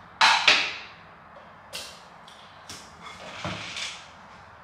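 Hard plastic knocks and clicks of a creatine tub and its scoop being handled while a scoop of powder is taken: two sharp knocks close together near the start, then a few lighter taps.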